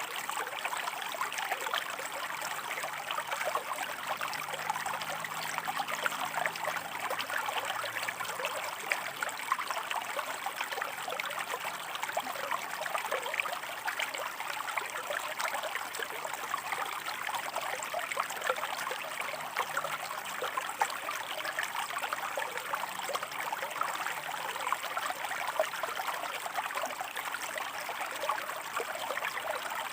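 Shallow river water running over rocks, a steady rushing with fine splashing and trickling throughout.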